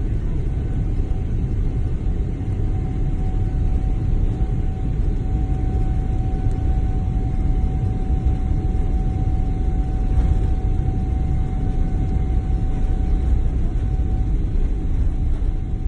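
Airliner engine noise heard from inside the cabin: a steady low rumble with a thin, even whine over it that drops away near the end.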